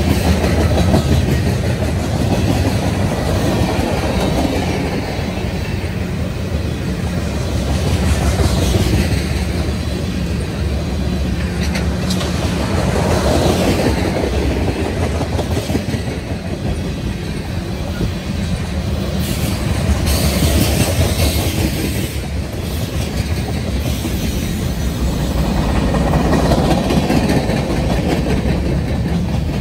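BNSF freight train cars rolling past at close range: a steady low rumble and rattle of wheels on rail, with a few brief high-pitched wheel squeals.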